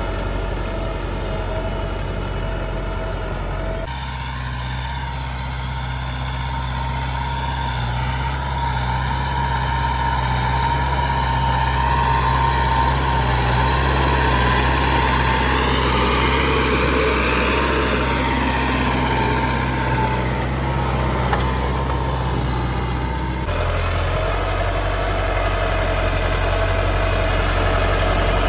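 Tractor engines running steadily under load, the sound changing abruptly about four seconds in and again near the end as one engine gives way to another; in the middle stretch the pitch rises and then falls.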